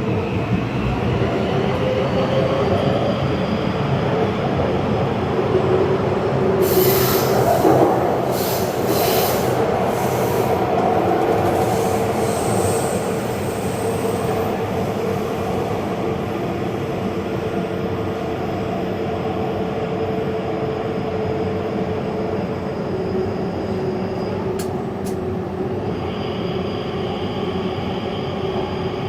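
Taipei Metro train running along the track, a steady rumble with a held motor whine, and a few seconds of high-pitched wheel squeal about seven seconds in.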